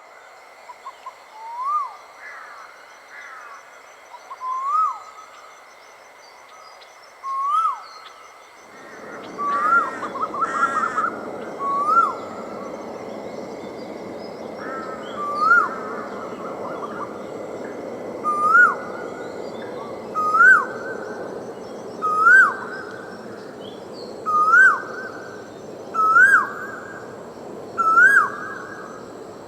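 A wild bird repeating a short call that rises and then drops sharply, about once every two seconds, louder toward the end, over steady high tones. An even rushing noise comes in about nine seconds in.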